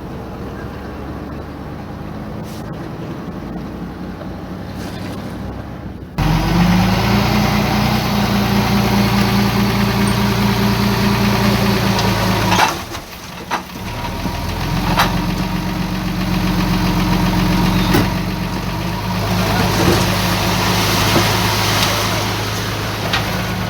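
Heavy diesel engine of earthmoving machinery running steadily. It jumps abruptly much louder about six seconds in, drops out briefly around the middle, then carries on.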